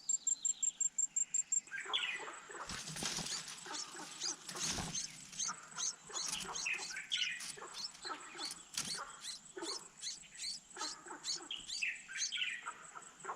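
Red-whiskered bulbuls chirping at the nest: a busy run of short, high chirps that fall in pitch, starting about two seconds in. Before them a fast, high pulsing stops about a second and a half in.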